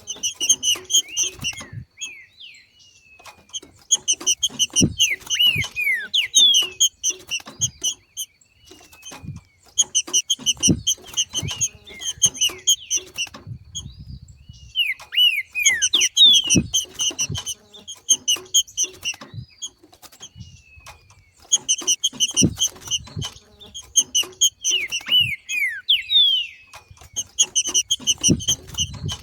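Green-winged saltator (trinca-ferro) giving its 'macheado' breeding call: bursts of rapid chattering notes mixed with short downward-sliding whistles, repeated about every five to six seconds.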